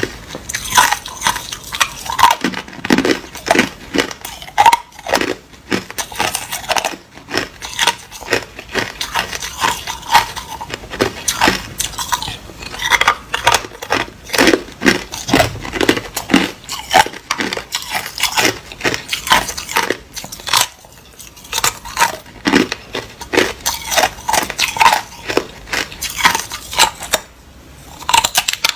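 Hard ice being bitten and chewed close to the microphone: a rapid, irregular run of sharp crunches and cracks, several a second, with a brief pause near the end.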